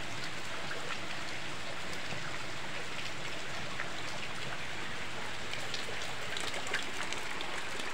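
Steady rain falling, an even hiss, with a few faint clicks near the end.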